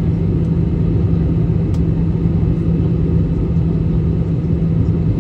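Steady cabin noise of a passenger airliner in flight: a constant low rumble of engines and airflow with a steady low drone.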